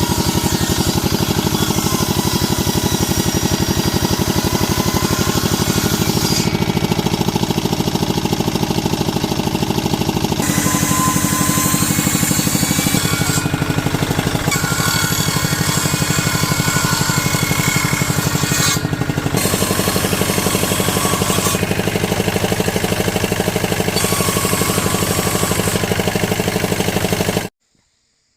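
A power tool's motor running steadily with a fast, even pulse. Its pitch shifts abruptly a few times, and it stops suddenly near the end.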